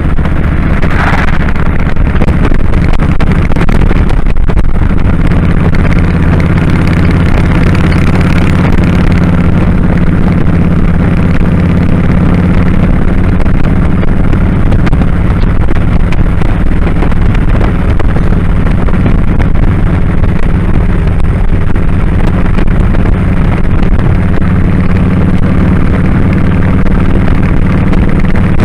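2001 Kawasaki Drifter 1500's V-twin engine running on the road under wind noise over the microphone. The engine note breaks briefly about four seconds in, then holds a steady drone.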